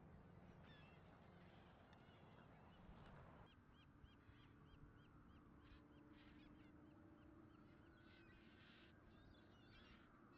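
Faint calls of waterbirds at a lagoon, with a quick run of repeated short notes, about four a second, in the middle and scattered honk-like calls over a low background rush that drops away about three and a half seconds in.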